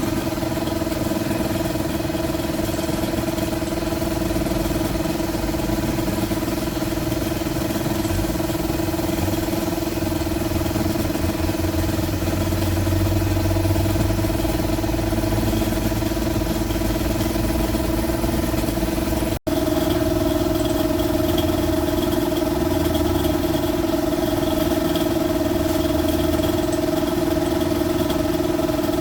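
A box truck's diesel engine running steadily with a constant, even hum. It is briefly cut off once by an edit, and then resumes slightly louder.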